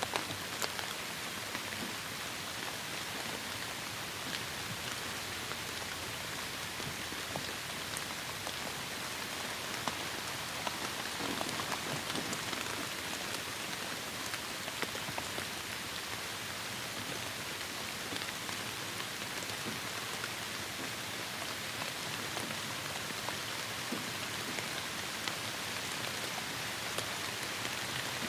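Heavy rain falling steadily, a dense hiss with many individual drops pattering and ticking on surfaces.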